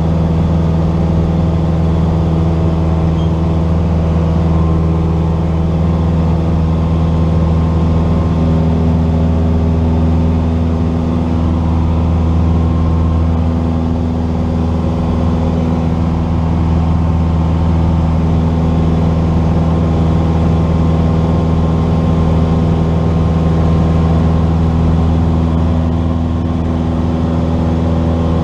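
Cessna 172's piston engine and propeller droning steadily at constant power, heard from inside the cabin, with no change in pitch.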